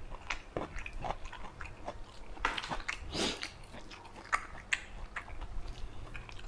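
A man chewing a mouthful of eel curry with sticky rice close to a lapel microphone: irregular wet smacks and small clicks of the mouth, with a few louder smacks about halfway through.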